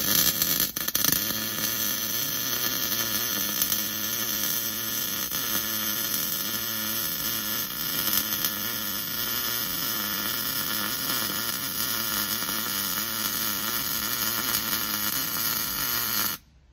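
Wire-feed (MIG) welder running one continuous bead over a crack: a steady crackling hiss with a faint hum underneath, cutting off suddenly near the end.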